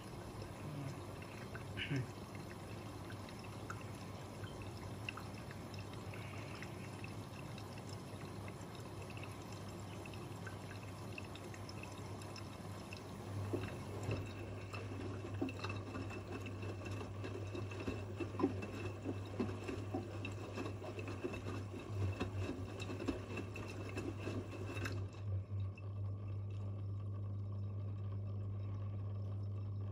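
Two washing machines, an AEG Öko-Lavamat 88840 and a Miele Novotronic W 985, mid-cycle: water pouring and splashing inside a drum, with a steady low hum joining about halfway through. Near the end the water sound stops suddenly and only the low hum carries on.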